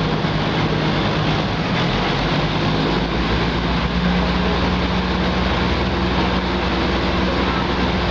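Diesel passenger train heard from inside a carriage as it pulls away from a station: a steady engine drone over rumbling wheels and rail noise. The drone and rumble grow stronger about halfway through as the train gathers speed.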